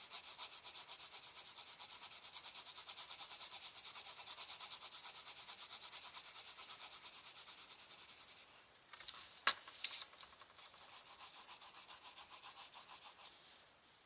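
Fast back-and-forth colouring-in strokes on paper with a drawing tool, a steady scratchy rubbing at several strokes a second. It breaks off about eight and a half seconds in, with a couple of sharp clicks, then resumes more quietly.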